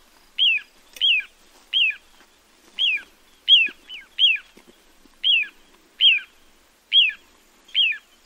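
Little ringed plover calling: a short whistled note that falls sharply in pitch, repeated about ten times at a steady pace of a little more than one a second.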